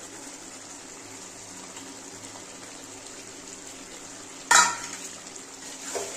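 Chicken kosha sizzling steadily in a steel pan on a gas burner. A sharp knock against the pan comes about four and a half seconds in, and a softer one near the end.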